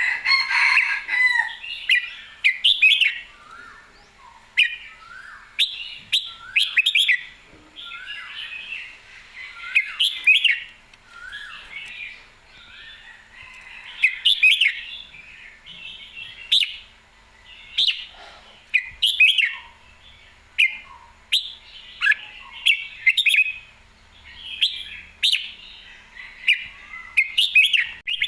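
Red-whiskered bulbul singing: short, bright warbled phrases repeated every second or two in full voice, the lively song of a bird in fighting form.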